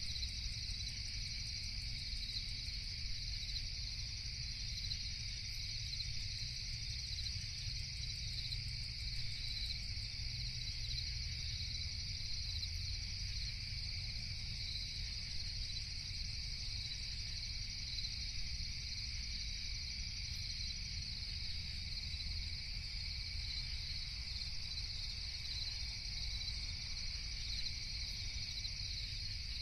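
Steady night chorus of crickets, a continuous high trilling, over a low steady rumble.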